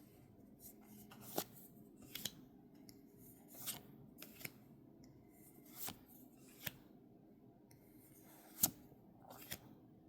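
Pokémon trading cards being handled and flipped through from a freshly opened booster pack. It sounds as a series of short, sharp card clicks and snaps at irregular intervals, the loudest a little past the middle.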